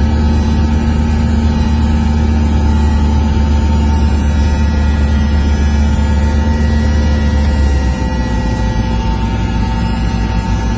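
Cessna 172S's four-cylinder Lycoming piston engine and propeller droning steadily, heard from inside the cockpit. About eight seconds in the engine note drops lower and a little quieter as power comes back.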